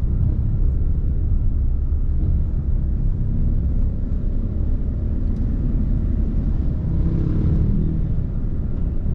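Steady low rumble of a road vehicle underway, engine and road noise.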